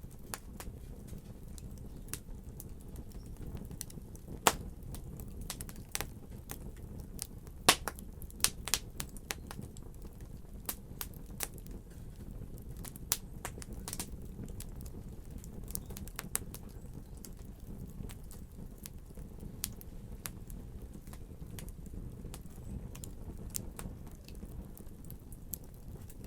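Fire crackling: a steady low rumble with irregular sharp pops and snaps throughout, the loudest pops about four and a half and about seven and a half seconds in.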